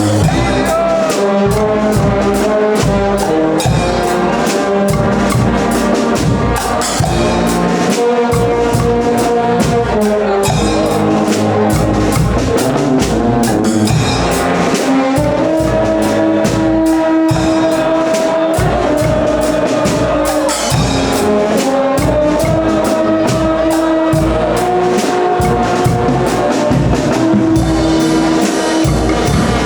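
A Guggenmusik carnival band playing: brass, trumpets and trombones among them, holds long chords over a steady drum beat.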